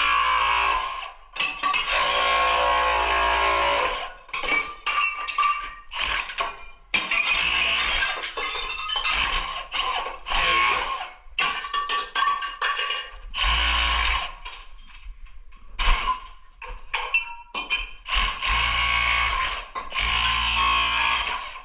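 Tile repair work: a power tool running in repeated bursts of one to two seconds, with clinking and breaking of tile pieces between them.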